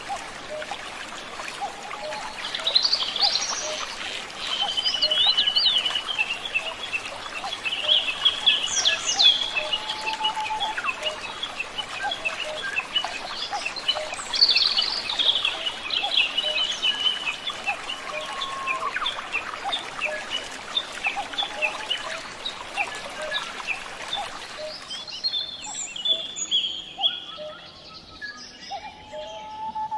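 Several wild birds singing and calling with chirps, trills and short whistled phrases over a steady rushing hiss. The hiss cuts off abruptly near the end, leaving the birdsong clearer.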